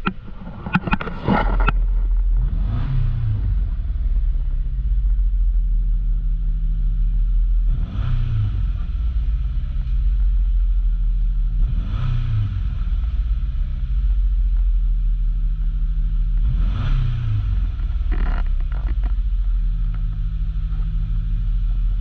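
2019 Subaru Legacy's 2.5-litre flat-four boxer engine starting after a short crank about a second and a half in, then idling steadily. It is blipped briefly four times, each rev rising and falling back to idle.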